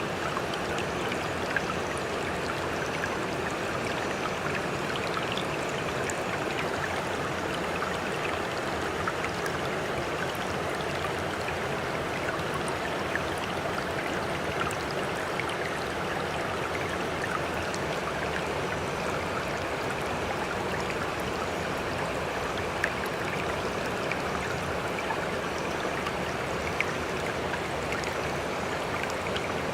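Sea water washing and lapping steadily, with small splashes and drips scattered through it.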